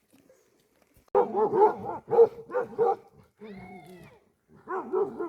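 A dog barking repeatedly in short, sharp barks. The barking starts about a second in, breaks for a moment with a softer drawn-out sound in the middle, and starts again near the end.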